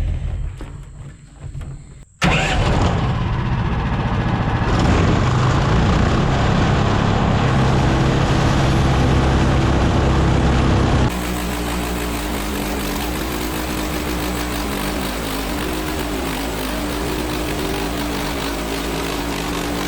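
Portable band sawmill's gas engine running under load, loud and steady. It comes in abruptly about two seconds in after a brief lull, and about halfway through it changes to a slightly quieter, steady drone with a constant hum.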